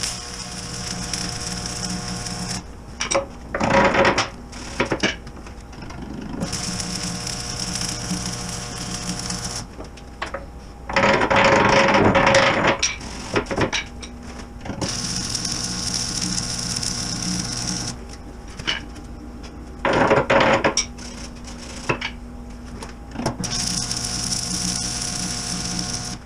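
Stick (arc) welding with 7018 rods on DC: the arc crackles over a steady buzz in several stretches, broken three times by louder bursts of noise of a couple of seconds each.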